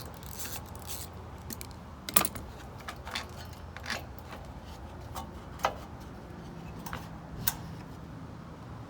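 Hand tools working on small-engine bolts: scattered sharp metal clicks and clinks at irregular intervals, a few every couple of seconds, as 10 mm bolts are turned out.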